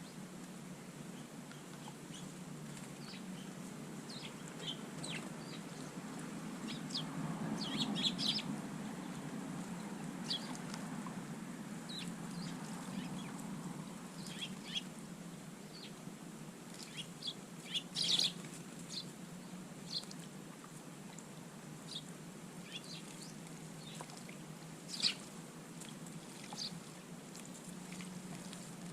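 Short bird calls and chirps scattered irregularly, a few louder than the rest, over a steady low hum.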